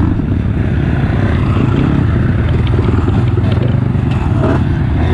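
Honda CRF230F trail bike's single-cylinder four-stroke engine running steadily.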